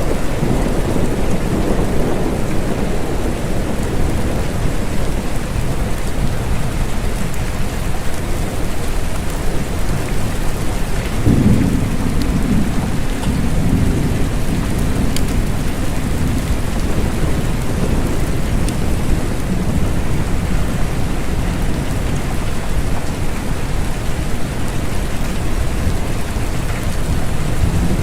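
Steady rain with rolling thunder. A low rumble sounds in the first few seconds, a heavier one starts a little before the middle and rolls on for several seconds, and another begins right at the end.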